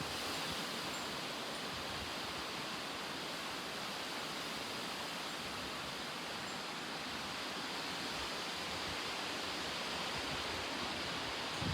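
Strong thunderstorm winds blowing: a steady, even rushing noise.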